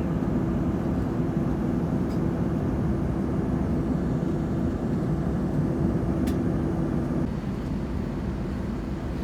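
Steady roar of an Airbus A330-300 jet airliner cabin, engines and airflow, with a steady hum that drops away about seven seconds in, leaving the noise a little quieter. A short click about six seconds in.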